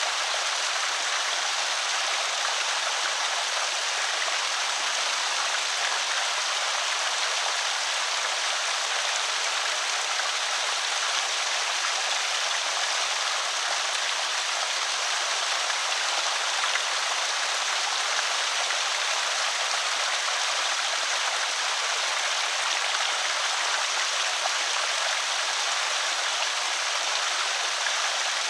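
Water pouring steadily over a small creek spillway, a constant even rush of trickling and splashing.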